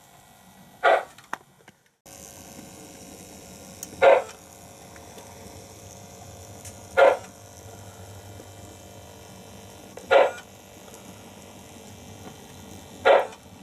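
MTH RailKing Pennsylvania steam turbine model locomotive's Loco-Sound: a steady low hum with a short, loud burst repeating evenly about every three seconds.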